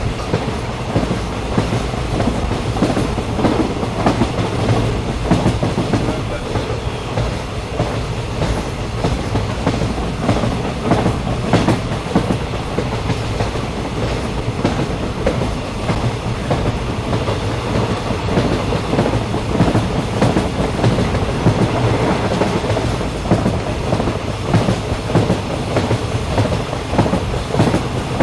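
Steady rumble of a moving passenger train heard from inside the carriage, with a constant clatter of small knocks from the wheels on the rails.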